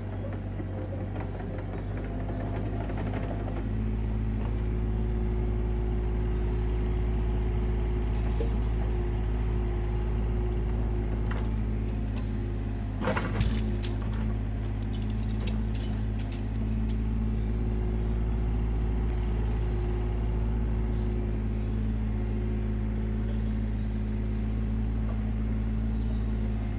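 Suzuki Jimny engine running steadily while driving, with scattered light rattles and a louder knock about halfway through.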